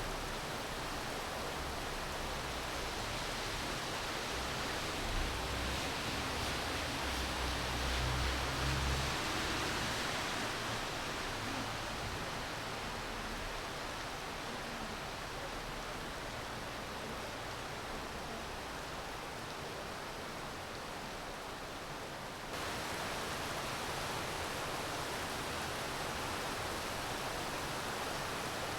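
Steady rain, an even hiss. A low rumble swells in and fades around eight seconds in, and about twenty-two seconds in the sound jumps abruptly to a slightly louder, brighter hiss.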